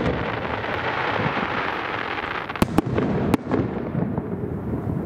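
Aerial fireworks bursting: a dense, continuous crackle in the first half, then three sharp bangs in quick succession around the middle, followed by a rumbling echo that fades toward the end.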